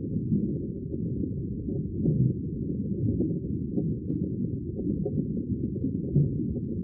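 Low, muffled rumble of the sea, a steady wash of water with slight rises and falls in level.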